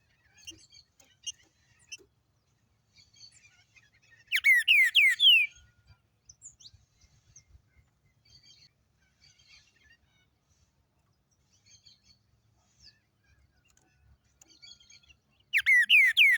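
A songbird singing: two loud phrases of about five quick notes, each sliding downward, about four seconds in and again near the end, with faint chirps in between.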